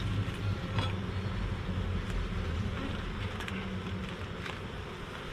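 Honey bees buzzing around the hive in a steady hum.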